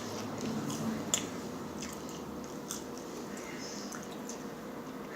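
Close-miked chewing and wet mouth sounds of someone eating, with a few sharp clicks, the loudest about a second in.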